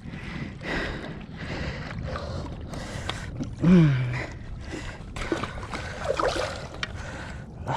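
Water splashing and sloshing in irregular bursts at the river's edge as a hooked catfish is landed, with a short falling grunt from the angler a little before halfway through.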